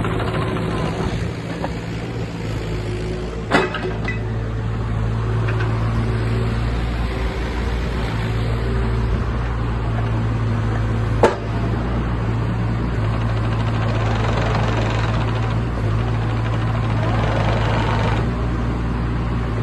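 JCB 8026 CTS mini excavator's diesel engine running steadily, with two single sharp knocks, one early and one past halfway.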